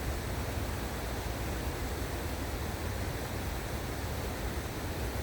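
Waterfall rushing: a steady, even roar of falling water with a deep low rumble.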